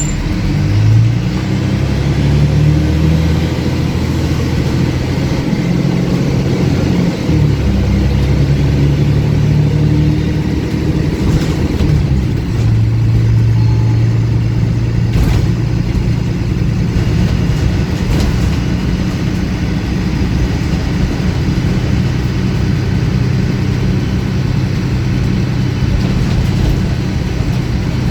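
Diesel engine of a MAN 18.220 single-deck bus running under way, with its exhaust louder than usual. The engine pitch rises and drops back a few times in the first half as it pulls away and changes gear, then holds steady.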